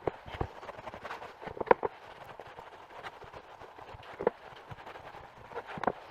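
Handling noises from working balm into a leather boot: a soft rubbing haze with a few scattered knocks and taps.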